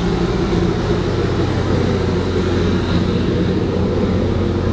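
RV rooftop central air conditioner running: a steady, unbroken hum.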